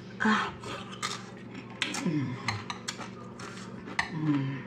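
Close-mouthed crunching of a chip dipped in cheesy Rotel dip, with many sharp crackly crunches as it is chewed. There is a short hum right at the start, a falling "mmm" of enjoyment about two seconds in, and another hum near the end.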